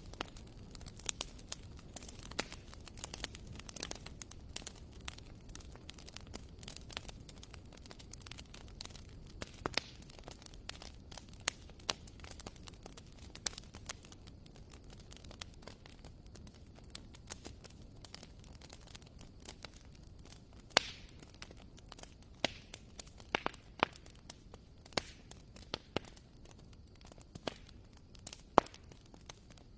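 Wood fire burning in a fireplace: irregular sharp crackles and pops of the burning logs over a soft low rumble of the flames, with a few louder pops in the second half.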